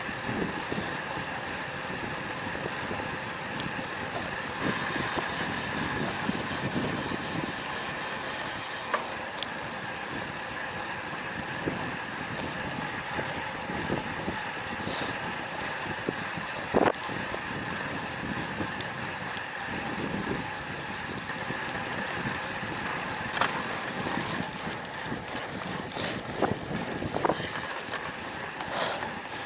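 Steady wind and road noise from riding a road bike in strong wind, as picked up by an action camera, with a hissing swell for a few seconds and a handful of sharp clicks and knocks.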